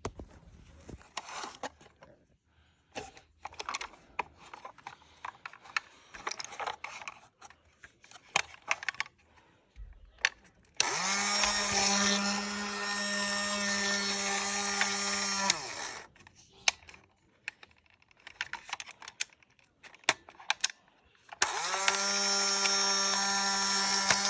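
A battery-powered toy's small electric motor whirring in two runs of about five seconds, speeding up as it starts and winding down as it stops, between light plastic clicks and rattles from handling the toy.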